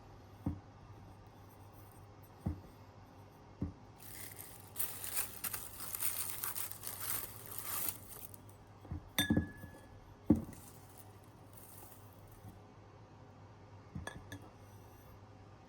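Close handling sounds: three light knocks, then a few seconds of crinkling or tearing, then a glass clink that rings briefly, another knock and a couple of light clinks near the end.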